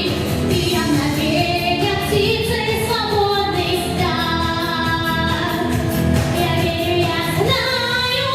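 A female voice singing a Russian song over instrumental accompaniment with a steady beat, holding long notes with vibrato.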